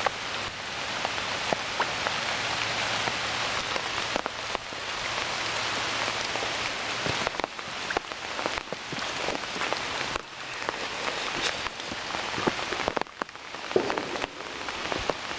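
Steady heavy rain, with the sharp ticks of single drops striking close by, over water running down a small pond outflow stream.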